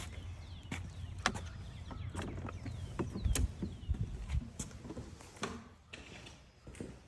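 Footsteps and irregular knocks and clicks on a forest trail over a low rumble, with a few faint bird calls behind.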